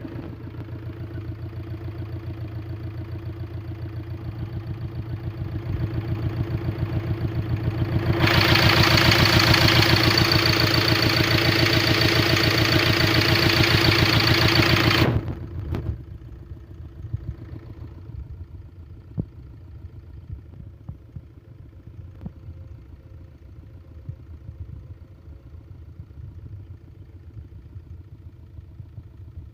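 Hyundai Creta engine running with a steady rhythmic pulsing. From about eight seconds in it gets much louder, with a hiss over the top, then drops back suddenly to a quieter pulsing idle about seven seconds later. This is the sound the title calls back compression, that is, crankcase blow-by.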